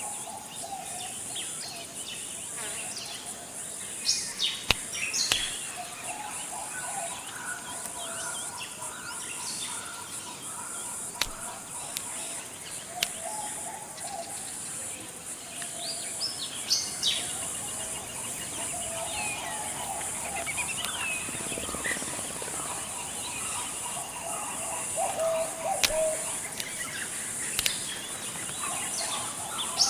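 Forest ambience: a steady high-pitched drone of insects, with several birds calling over it, quick sweeping chirps now and then and lower warbling calls.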